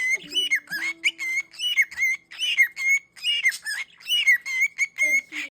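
Pet bird chirping and whistling in a quick series of short notes that slide up and down.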